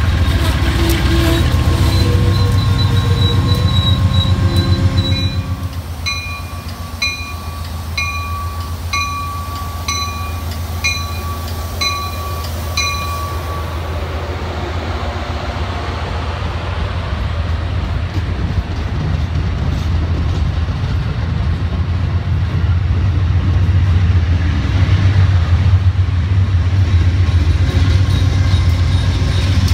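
Shore Line East passenger train hauled by an Amtrak P42 diesel locomotive moving through the station: the locomotive's diesel engine drones at first, then a bell rings about once a second for roughly eight strokes, then the coaches rumble steadily over the rails, getting louder near the end.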